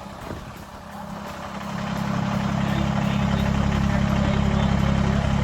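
A vehicle engine grows louder over about a second and then runs steadily with a low hum.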